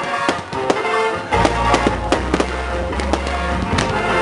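Fireworks shells bursting in the sky, a dense run of sharp bangs and crackles, over music with a deep bass that comes in about a second in.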